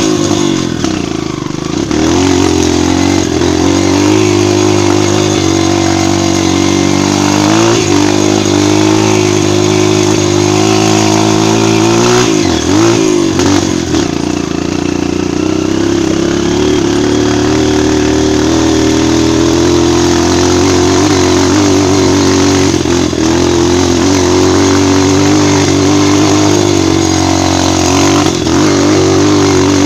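Single-cylinder four-stroke trail motorcycle engine running under load, its pitch dropping briefly and picking up again a few times as the throttle is eased and reopened.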